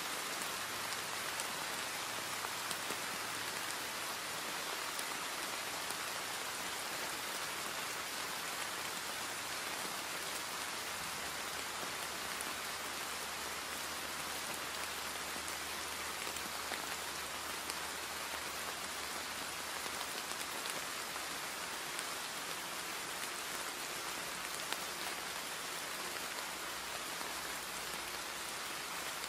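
Steady rain falling, an even hiss of drops on surfaces, with a faint low hum coming and going underneath.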